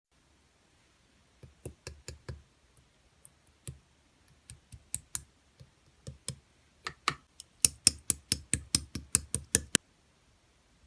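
Slime being squeezed and poked by hand, giving a series of sharp clicks and pops as trapped air bursts. The clicks are scattered at first, then come quicker and louder at about five a second for the last couple of seconds before stopping.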